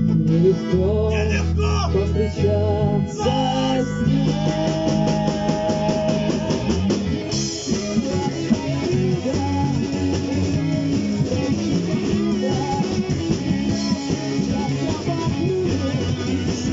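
Rock band playing an instrumental passage: guitars over a drum kit, with a note held for a few seconds about four seconds in.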